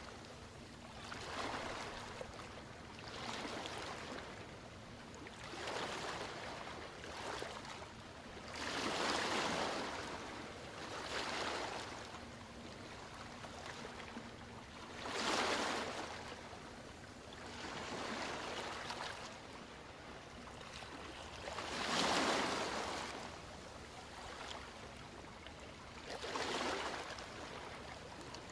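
Ocean waves breaking and washing up a beach, each one swelling and falling away over a few seconds, with larger waves about 9, 15 and 22 seconds in.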